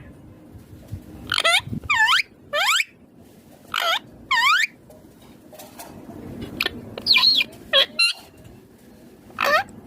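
Indian ringneck parakeet giving a series of short, shrill squawks, each sweeping sharply up or dipping in pitch, in clusters with pauses between.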